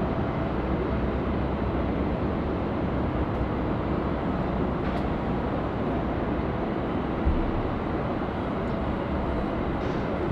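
Steady low rumble of a jet airliner's engines arriving to land, heard from a distance, with no clear whine on top.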